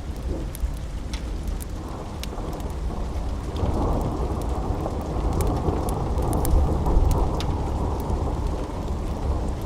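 Steady rain with a long roll of thunder that builds about two seconds in and swells through the middle, over a low rumble. Scattered sharp crackles from a fireplace sound throughout.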